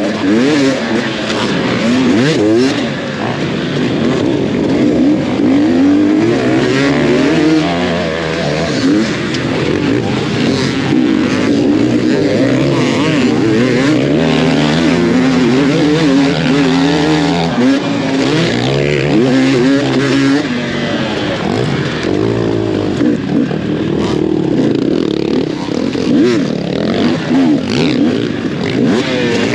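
Several off-road dirt bike engines running and revving together, their pitches rising and falling and overlapping.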